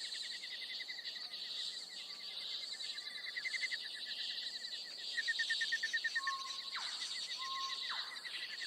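Night-time chorus of insects: rapid pulsing trills and a steady high buzz, with a couple of short whistled calls that drop sharply in pitch in the second half.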